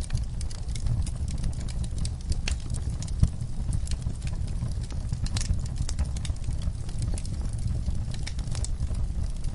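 Wood fire burning in a fireplace: irregular crackles and pops over a steady low rumble of the flames, with one louder pop a little after three seconds in.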